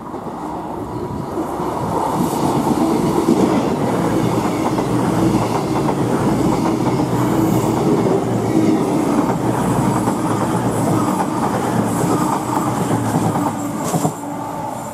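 A CrossCountry Voyager diesel multiple unit passing through the station at speed: engine drone and wheels clattering over the rails, building over the first few seconds and easing off near the end. A short sharp knock sounds about a second before it fades.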